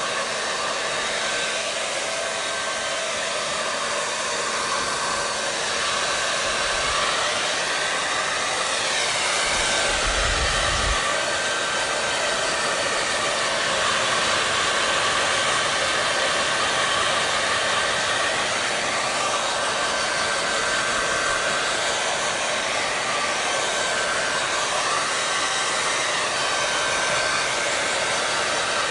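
Hair dryer blowing steadily: a continuous rushing of air with a faint steady whine, its tone drifting slowly up and down a few times.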